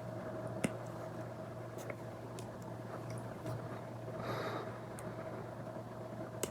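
Apple Pencil tip tapping and stroking on an iPad screen fitted with a paper-textured protector. There are light clicks every second or so and one short scratchy stroke about four seconds in, over a steady low background hum.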